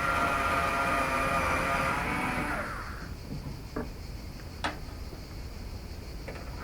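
A small electric power tool motor whirring steadily for about three seconds, then winding down, the kind of driver used to undo the bumper bolts. A few sharp clicks and knocks of parts being handled follow.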